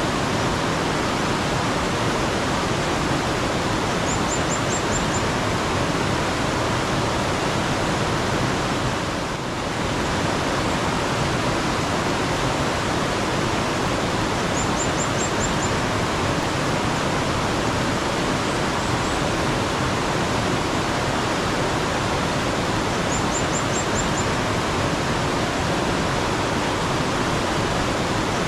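Mountain stream water flowing with a steady, dense rush. Three times, a small bird gives a quick high series of about five chirps.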